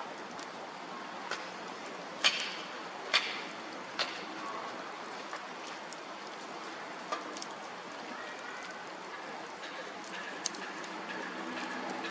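Bonfire crackling over a steady hiss, with a few sharp pops standing out.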